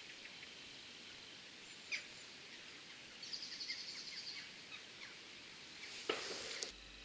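Faint birdsong over a steady outdoor hiss: a few short chirps and a quick trill of repeated high notes near the middle, with a brief rush of noise about six seconds in.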